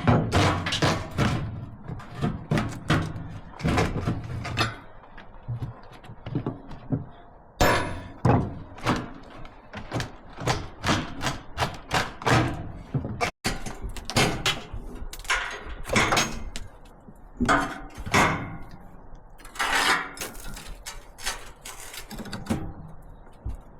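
Irregular knocks, thunks and clanks of hands and tools working on the pickup's bed, with a brief cut-out a little past halfway.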